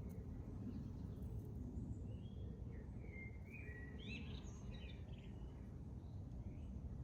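Garden birdsong: a short run of high chirps and whistled notes in the middle, over a steady low background rumble.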